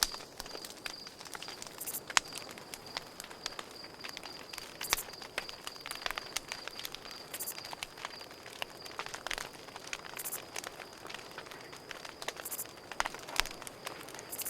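Campfire burning with frequent sharp crackles and pops from the wood, over crickets chirping in a steady high pulsing trill.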